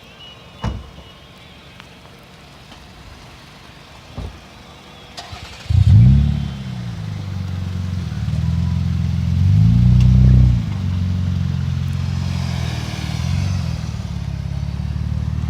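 After two sharp clicks, a car engine starts up suddenly about six seconds in and settles into idle. It is blipped a few times, with the biggest rev and fall about ten seconds in and smaller ones later.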